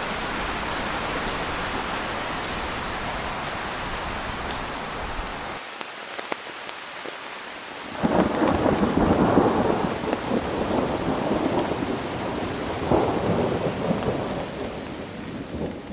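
Heavy rain falling steadily. It eases for a couple of seconds with scattered drips, then about eight seconds in a loud roll of thunder rumbles for several seconds, swells again, and fades near the end.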